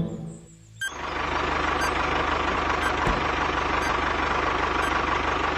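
Mini tractor engine starting up about a second in and running steadily, with a fast even knock and a faint steady whine.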